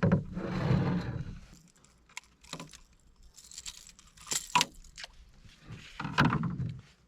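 A freshly caught northern pike thrashing as it is handled, a noisy splashing burst at the start, then a series of separate clinks, knocks and scrapes, with metallic jangling.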